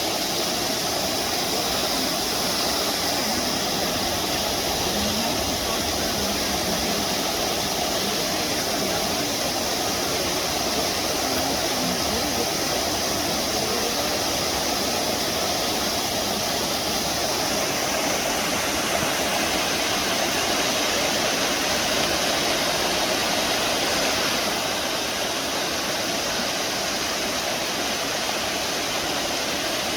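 Waterfall running steadily: a continuous rush of falling water, dropping very slightly in level about 24 seconds in.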